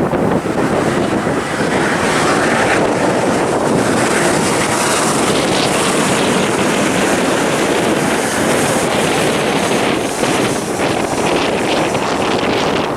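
Jet airliner engines running loudly as a plane passes close by, with wind buffeting the microphone; the noise falls away suddenly near the end.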